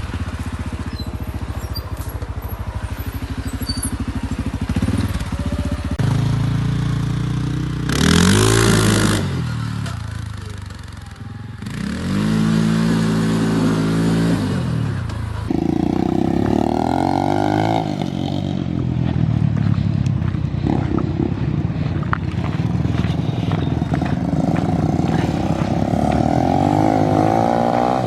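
Off-road vehicle engine running and revving, its pitch repeatedly rising and falling as the throttle opens and closes, with a loud rushing burst about eight seconds in.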